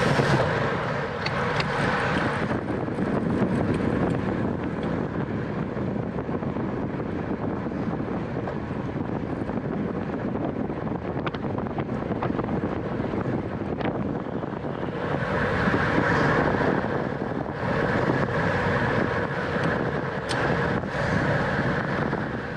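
Wind rushing over the microphone of a camera on a racing bicycle at speed, with tyre and road noise underneath; the rush grows louder about two-thirds of the way through.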